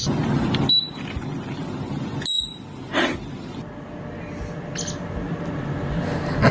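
A parrot giving two short, high, beep-like chirps about a second and a half apart, over a steady background hiss.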